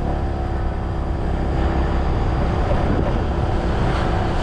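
Scooter engine running at a steady pitch while riding, over a heavy low rumble of road and wind noise.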